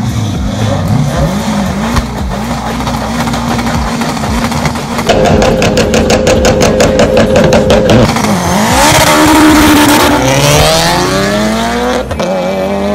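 A Mitsubishi Evo X and a turbocharged AWD Honda Civic revving at the line. For about three seconds the engines are held at high revs with a rapid, even stutter. Then they launch, engine pitch rising through several gear changes, with a rush of tyre noise as they pull away.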